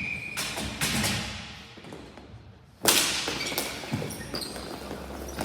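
Ball hockey play: sticks and a hard plastic ball knocking, with a loud sharp crack about three seconds in and several lighter knocks after it.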